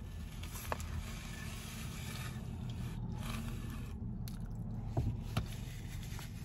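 Biting into and chewing a taco close to the microphone, wet mouth sounds with a few short clicks, over a steady low hum.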